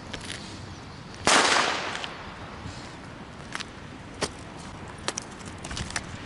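A New Year's Eve firecracker goes off with a loud bang about a second in, echoing out over about half a second. It is followed by a handful of quieter, sharp firecracker cracks spread over the next few seconds.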